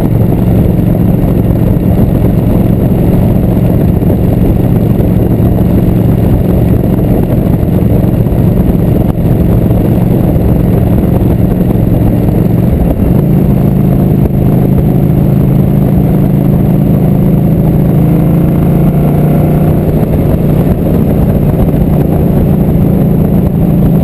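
Motorcycle engine running steadily while riding at road speed. About halfway through, its note steps up a little, as when the rider gets on the throttle.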